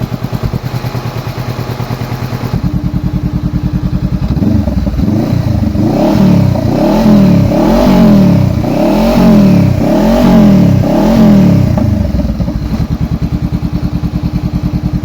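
2014 Honda CB500F's parallel-twin engine idling, then revved in about half a dozen quick throttle blips from about four seconds in before settling back to a steady idle. It runs without the tec-tec tapping it had before; the noise is cured.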